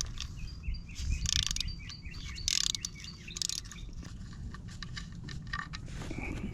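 Small birds chirping repeatedly, mixed with several short bursts of clicking in the first few seconds.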